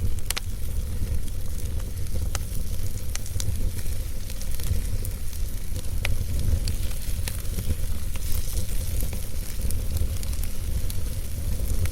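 Wood fire burning in a fireplace: a steady low rumble of flames with frequent sharp crackles and pops from the logs, a loud pop just after the start.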